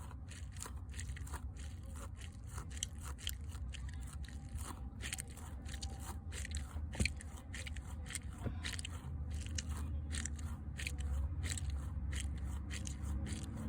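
A squishy toy being squeezed and handled close to the microphone, making a run of irregular crackly, squelching clicks, over a low rumble.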